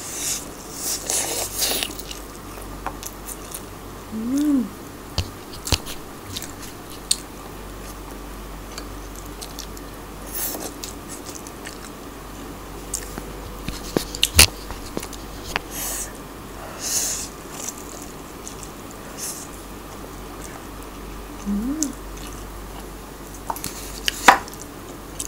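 Close-up eating sounds of spicy instant noodles: slurping pulls and wet chewing, strongest in the first couple of seconds, with a few sharp clicks and two brief hummed 'mm' sounds.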